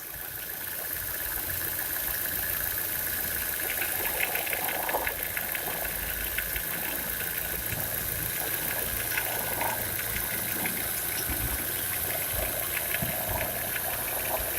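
Fiat Grande Punto running with its air-conditioning compressor engaged, giving a steady drone with a faint rapid ticking over it. The sound builds over the first couple of seconds and then holds even. The droning is put down to the A/C compressor.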